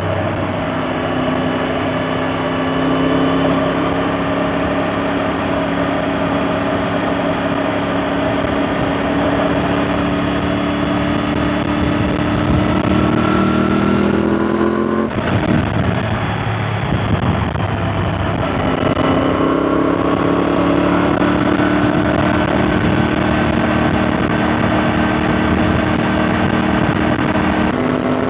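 Triumph Tiger 900 GT's three-cylinder engine through an Arrow aftermarket silencer, heard while riding. The exhaust note rises slowly under steady acceleration, drops away about 15 s in as the throttle is eased or a gear is changed, then rises slowly again.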